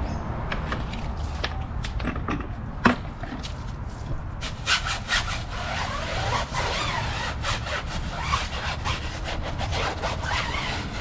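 Car tire and wheel rim being scrubbed with a brush: a few separate strokes at first, then quick repeated scrubbing strokes from about four seconds in, working off grime and brake dust. A low steady hum runs underneath.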